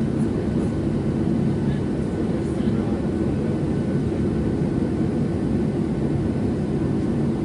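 Steady engine and airflow noise inside the cabin of a Boeing 737-700 airliner with its CFM56-7B turbofans running, heard from a window seat, a low even drone with a faint high steady whine above it.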